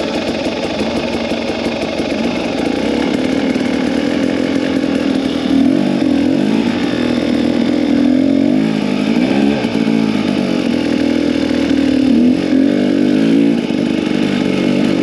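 Yamaha PW50's small two-stroke single-cylinder engine running, steady at first, then revving up and down from about five seconds in as the throttle is worked.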